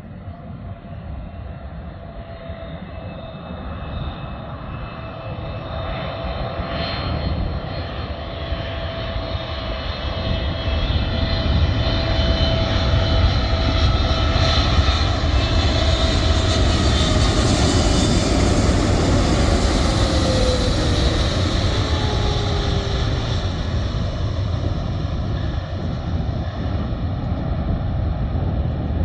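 Airliner's engines growing louder over about twelve seconds, loudest as it passes, then slowly fading, with a steady whining tone that drops in pitch as the plane goes by.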